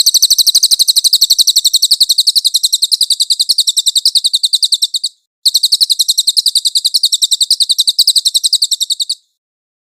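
A songbird's high-pitched, rapid trill of evenly repeated notes, about a dozen a second, in two long bouts with a short break just after five seconds; it stops about nine seconds in. A recorded master song of the kind used to train contest songbirds.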